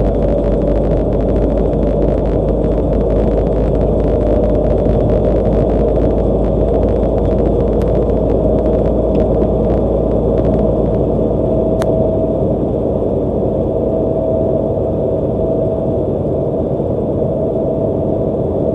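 Car driving at highway speed: steady road and tyre noise with a low rumble and a steady hum.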